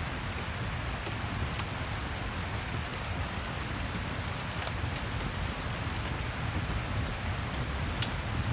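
Steady rain, an even wash of noise heavy in the low end, with a few sharp ticks scattered through.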